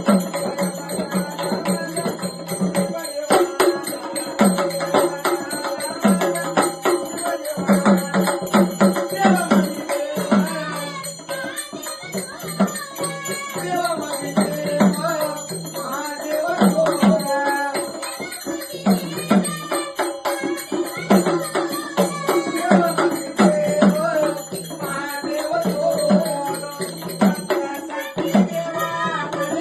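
Marathi gondhal devotional folk song music: a melody over a steady beat of drum strokes.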